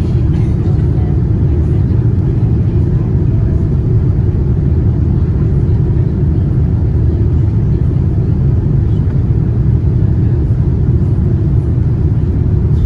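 Steady low rumble inside the cabin of a Boeing 787-9 with GEnx engines: engine and airflow noise, even throughout.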